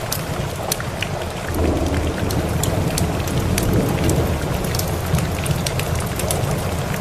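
Steady rain with a low rumble of thunder that swells about a second and a half in and lasts a few seconds, over scattered sharp crackles of a wood fire.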